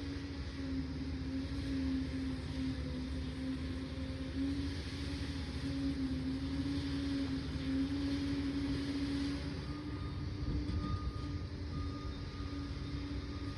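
Liebherr PR 746 crawler dozer's diesel engine running steadily under load with a constant drone, a faint higher whine joining about ten seconds in.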